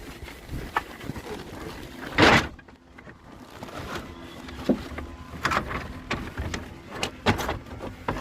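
Wood being handled, with scattered knocks and clatter and one louder, longer noise about two seconds in.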